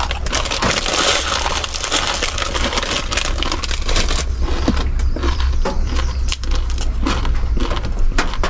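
Plastic instant-noodle packet crinkling while the dry noodle block inside is crushed and crunched, with dense irregular crackling.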